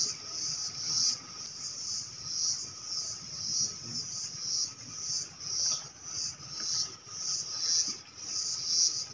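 Insects calling in a high-pitched chorus that swells and fades about once a second, over a faint steady hum.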